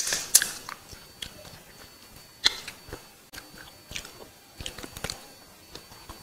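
Close-miked chewing and lip smacking of a person eating biryani rice by hand, with sharp wet mouth clicks, the loudest at the start and about two and a half seconds in.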